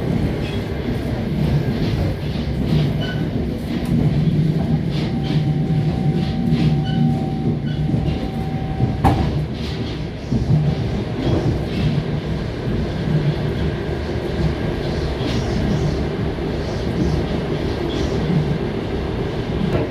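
Passenger train running on the rails, with a steady rumble and the clack of wheels over rail joints, heard from inside the carriage. A thin steady whine starts a quarter of the way in and lasts a few seconds, ending in a sharp click near the middle.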